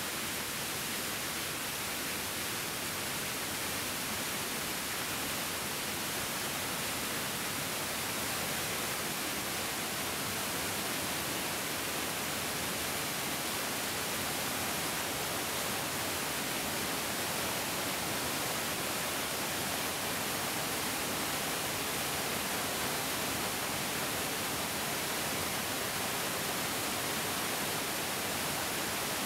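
Bigger mountain stream flowing: a steady, even rush of water with no breaks or separate splashes.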